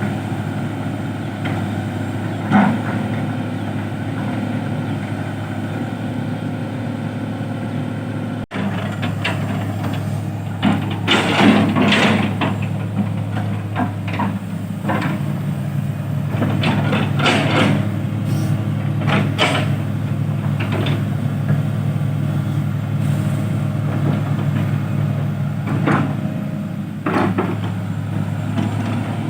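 Heavy truck engine running steadily. After a brief cut-out about eight seconds in, a series of metallic clanks and knocks sounds over it, loudest a few seconds later.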